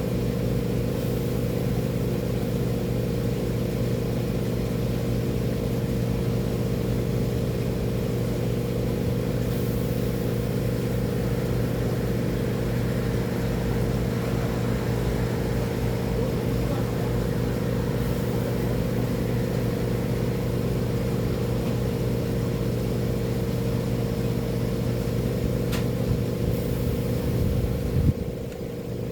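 An engine running steadily at constant speed, a deep drone with a fixed hum, with a brief bump in level near the end.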